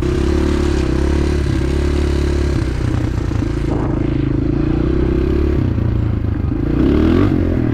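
Dirt bike engine running, its pitch shifting now and then and rising briefly near the end as it is revved.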